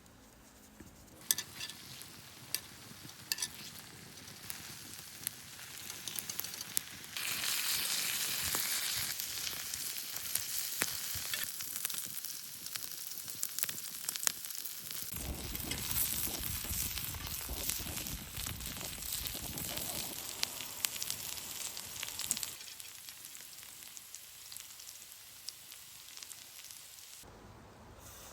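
Pork belly sizzling and spitting in a small frying pan, growing louder about seven seconds in and easing off after about twenty-two seconds. A few sharp clicks come in the first few seconds.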